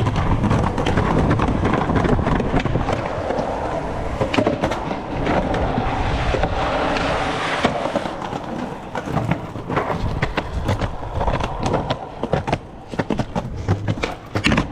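Skateboard wheels rolling on rough pavement, with sharp clacks and knocks of the deck striking the ground scattered through.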